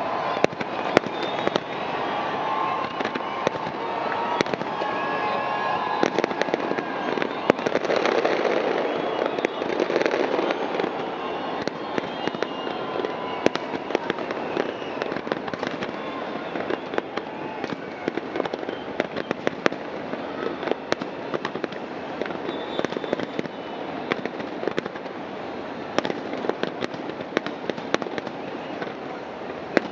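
Fireworks display: a continuous barrage of bangs and crackling bursts, densest in the first ten seconds.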